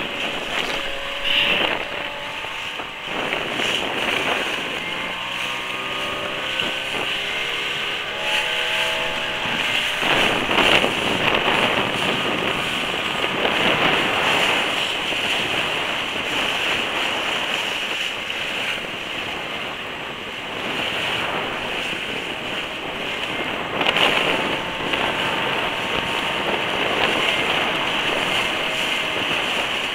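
Strong wind buffeting a mobile phone's microphone, with sea waves washing in underneath. A faint pitched sound with several tones comes through from about five to ten seconds in.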